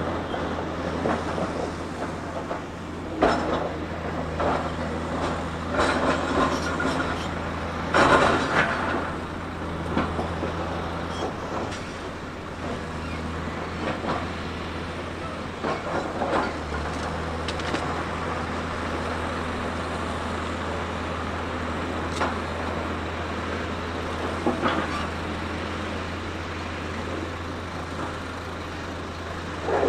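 Diesel engine of a heavy earthmoving machine running steadily with a low drone, with several sudden louder noises of the machine working, the loudest about eight seconds in.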